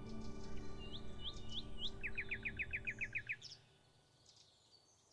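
Songbirds singing: a few short rising whistled notes, then a quick run of about ten rising notes, with fainter chirps around them. Soft ambient music plays under the birds and fades out a little over three seconds in.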